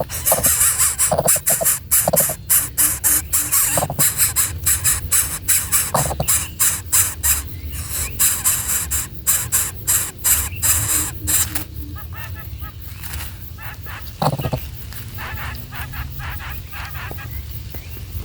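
Young birds calling: a dense run of rapid, high-pitched calls, several a second, for the first eleven seconds or so, then fainter, with a few short lower calls scattered through.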